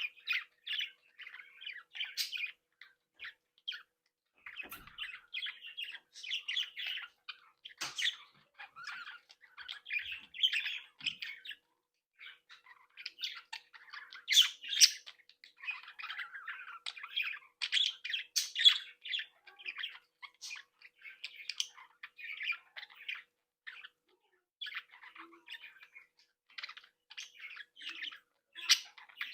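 Budgerigars chattering and chirping: a flock's rapid warbles, tweets and short squawks, with a brief lull about twelve seconds in.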